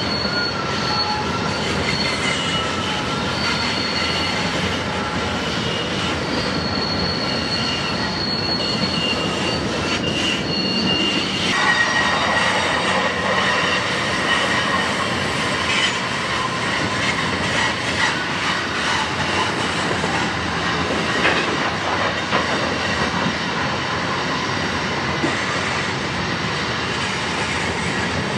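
Freight train of covered hopper cars rolling past on a curve: steady rumble of wheels on rail with high-pitched wheel squeal and some clicking over rail joints. The squeal changes pitch about a third of the way through, going from several thin high tones to a lower, fuller squeal.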